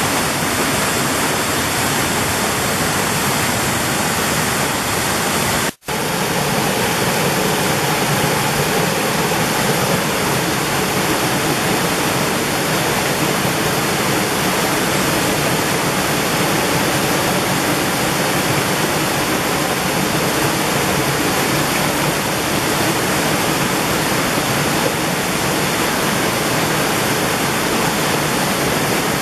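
Mountain valley stream rushing and splashing over rocks in a steady, dense wash of water sound, with a split-second dropout about six seconds in.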